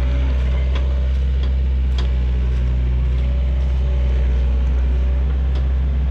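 Takeuchi TL130 compact track loader's diesel engine running steadily, with a few sharp clicks or cracks over it.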